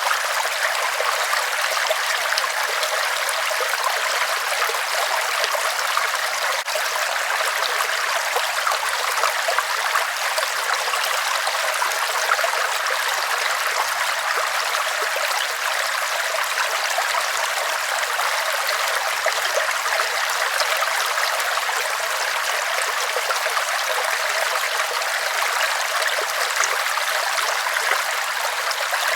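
River water rushing over rocks: a steady, even noise of flowing water, mostly in the middle and upper pitches with little deep rumble.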